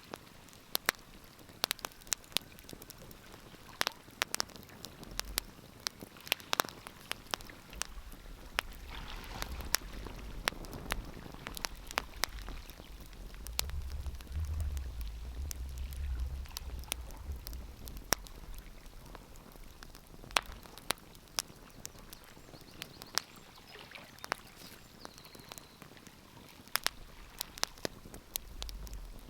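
Wood fire burning in a fireplace, crackling with frequent irregular sharp pops over a soft hiss. A low rumble swells in the middle and fades again.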